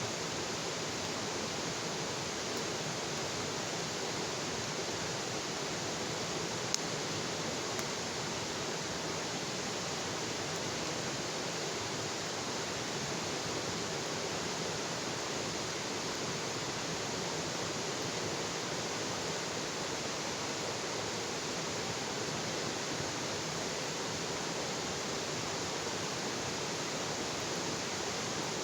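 Bonfire burning with a steady hiss, one sharp pop about seven seconds in.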